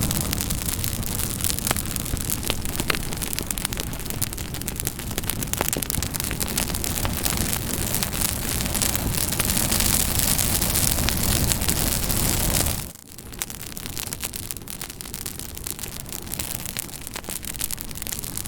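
Campfire crackling: a dense hiss of burning wood dotted with many sharp pops and snaps. About 13 seconds in it drops suddenly and goes on softer.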